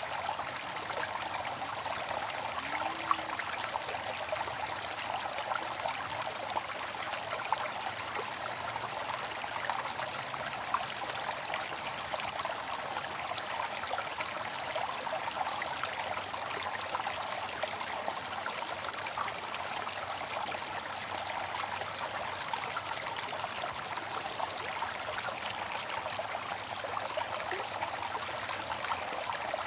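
Water fountain splashing and trickling steadily, with small droplets pattering throughout.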